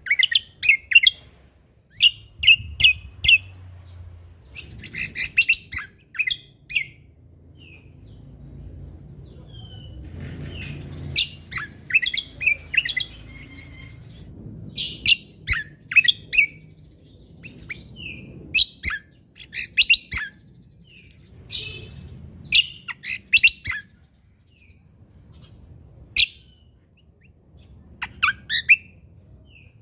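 A cucak kombo (kecial kombok) songbird singing in quick runs of sharp, high chirps and short whistled notes, each run lasting about a second, with short pauses between. A faint low rumble runs underneath.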